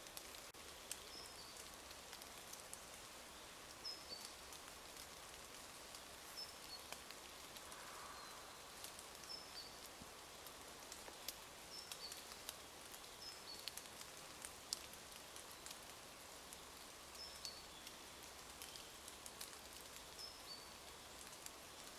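Light rain pattering and dripping in a beech wood, faint, with scattered drops ticking close by. A small bird repeats a short high two-note call every second or two.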